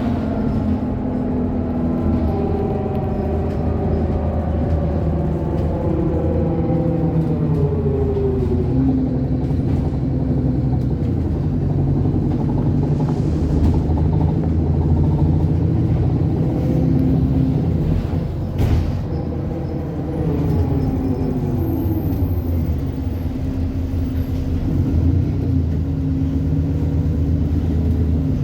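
Alexander Dennis Enviro 400 double-decker bus running under way, its engine and driveline tones falling in pitch twice as it slows and rising again as it pulls away, a sound the enthusiast likens to a tram. A single sharp knock about two-thirds of the way through.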